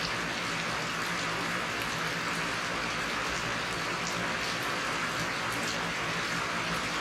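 Steady rain falling, an even hiss with single drops ticking now and then.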